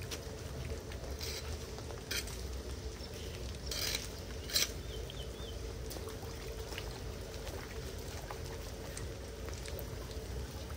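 Floodwater pouring steadily into a street storm drain, with a few short sharp sounds on top, about one to five seconds in.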